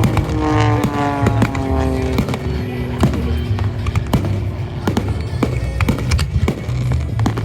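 Fireworks going off in a rapid series of sharp bangs, over loud music with a pulsing beat. In the first two seconds a cluster of falling tones sounds.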